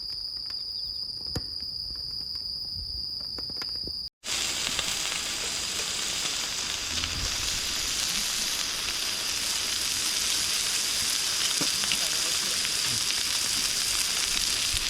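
Insects trilling steadily for the first few seconds. After a cut, food sizzling loudly and evenly as it cooks over the heat.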